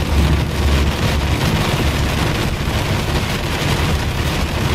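Steady noise inside a moving car's cabin: low engine and road rumble, with rain falling on the car.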